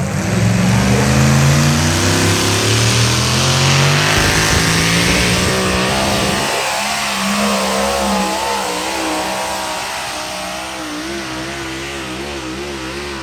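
A pulling truck's engine running at full throttle under load, its pitch climbing over the first few seconds and then wavering up and down as it drags the sled, growing gradually fainter in the second half.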